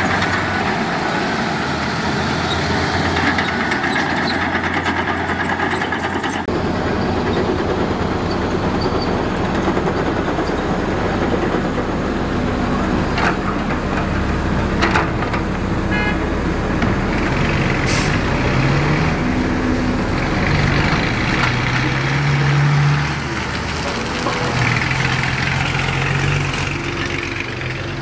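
Heavy diesel construction machinery running, with a few sharp knocks through the middle and the engine pitch rising and falling as the machines rev in the second half.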